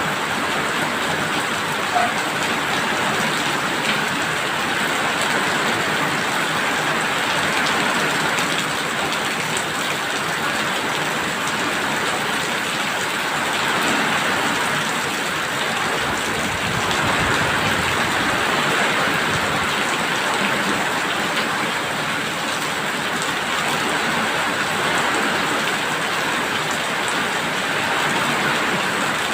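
Steady rain falling on surfaces, a dense even hiss, with one brief louder tap about two seconds in.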